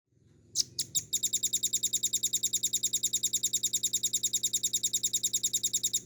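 Velvet-fronted nuthatch song: a few separate high notes, then a long, very fast, even trill of about ten notes a second that stops abruptly near the end.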